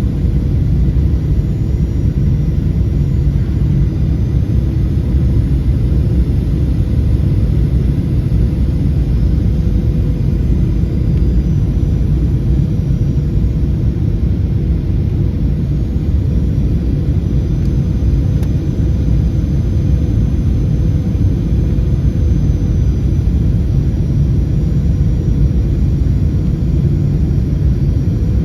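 Steady low rumble of a Boeing 737-800 heard from inside the passenger cabin, the airliner's engines and airflow running evenly with a faint steady hum on top.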